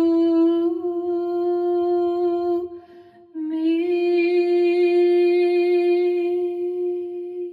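A woman's solo voice singing the slow closing notes of a ballad. One long held note breaks off about three seconds in, then a final long note is sustained and fades away at the end.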